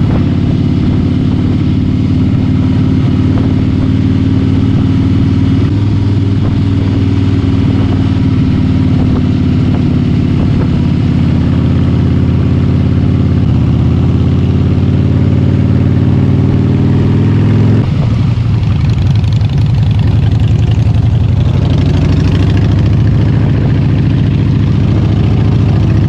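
Harley-Davidson motorcycle engine running under way, its note shifting in steps a few times. About two thirds through, the engine note drops lower and a rushing noise of wind rises.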